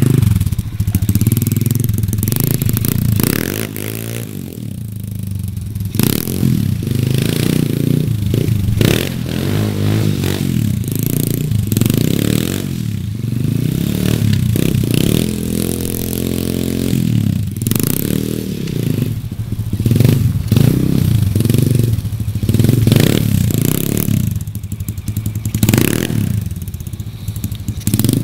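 Gio 125 pit bike's single-cylinder four-stroke engine revving up and down over and over as the bike is ridden, the revs rising and falling every second or two, with a steadier stretch about halfway through.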